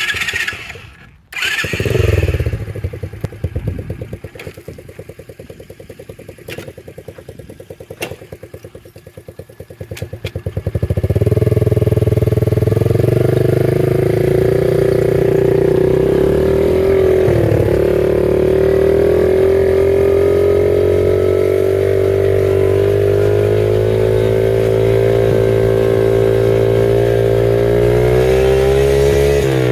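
PitsterPro FSE70 pit bike's 70cc four-stroke engine starting and running unevenly at low speed. From about a third of the way in it runs loud and steady at higher revs, dipping briefly once and rising slightly in pitch near the end.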